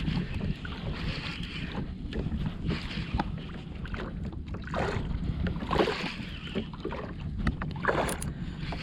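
Water slapping and sloshing against a kayak's hull in several short splashes, over a steady low rumble of wind on the microphone.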